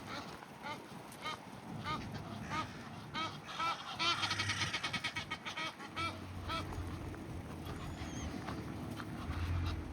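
Geese honking: a run of evenly spaced calls, about two a second, breaking into a fast, dense volley of honks about four seconds in, then stopping at around six and a half seconds.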